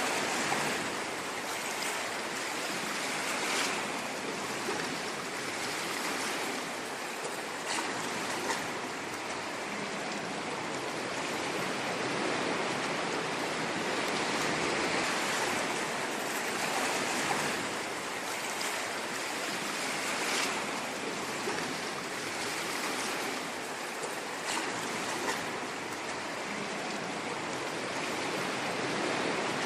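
Ocean waves washing on a shore in a steady rush of surf, swelling and easing slowly, with faint crackles of foam.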